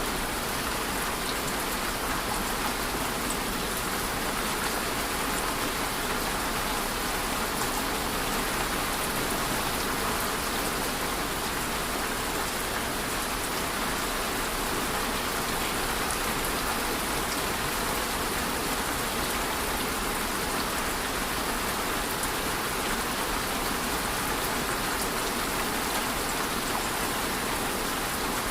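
Steady rain falling, a dense even hiss of drops with faint scattered individual drop ticks.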